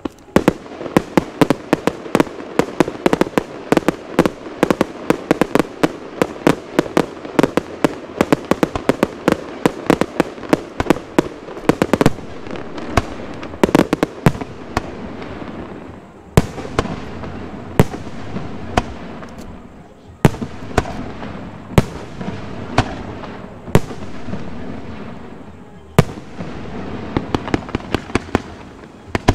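Aerial fireworks display: a dense, rapid barrage of shell bursts over continuous crackling for roughly the first twelve seconds, then sparser, separate loud bangs with crackling between them.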